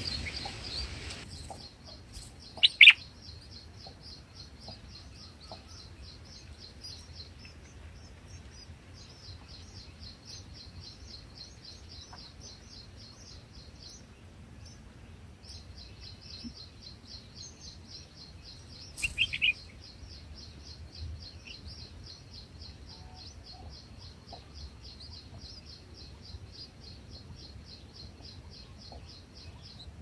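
Red-whiskered bulbuls at the nest give two loud short chirping calls, one a few seconds in and another about two-thirds through. Behind them runs a steady, fast, high-pitched pulsing chirr that pauses briefly about halfway.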